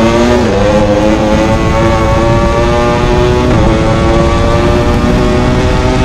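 Ducati Panigale V4 R's 998 cc V4 engine under hard acceleration, its pitch climbing steadily and dropping sharply at two upshifts, about half a second in and again about three and a half seconds in, with wind rush over the onboard microphone.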